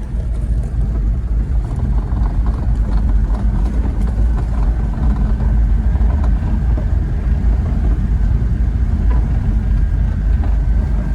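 Japanese kei mini pickup truck driving along, its engine running under a heavy, steady low rumble of road and wind noise, with a faint steady whine in the background.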